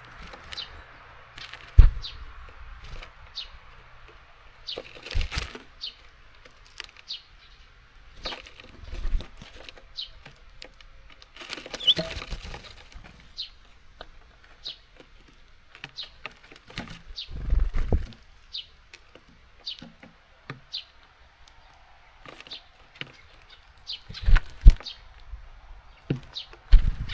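Small songbirds at a seed feeder: irregular knocks and thumps as they land, peck and shuffle on the feeder, with wing flutters and short high chirps throughout. The sharpest knocks come about two seconds in and twice near the end.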